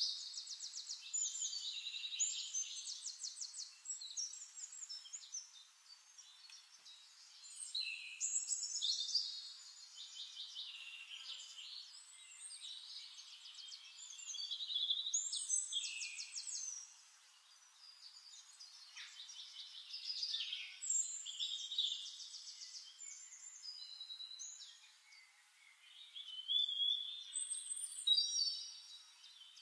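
Birds singing: bursts of high chirps and rapid trills, one song after another with short pauses between.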